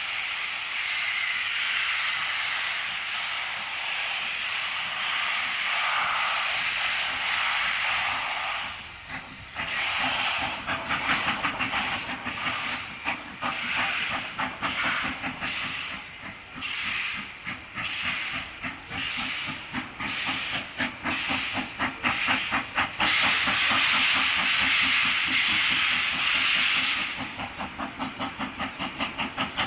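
Steam locomotive hissing steam, then working away with a rhythm of exhaust chuffs. A long steady hiss returns for a few seconds in the later part, and the chuffs come faster near the end as the engine gathers speed.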